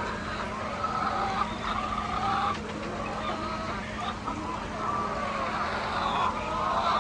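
A flock of chickens clucking and calling, many voices overlapping, over a steady low hum.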